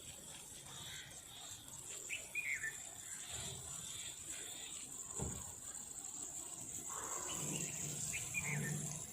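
Outdoor nature ambience: a steady high-pitched insect trill underneath, with a bird giving short falling chirps twice, about two seconds in and near the end.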